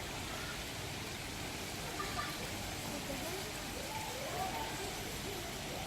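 Faint, indistinct chatter of people talking some way off, over a steady rushing background noise.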